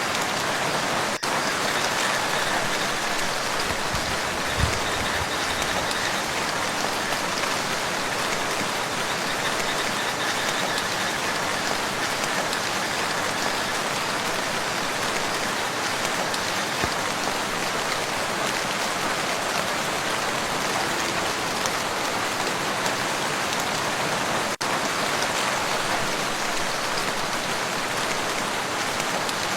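Steady rain falling on a lake: an even, dense hiss of drops. A single soft low thump comes a little over four seconds in.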